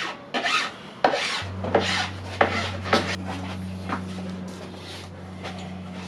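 Hand file rasping along the edge of a melamine particleboard panel, trimming the iron-on edge tape flush: quick strokes, about one every half second, that thin out and fade after about three seconds. A steady low hum starts about a second and a half in.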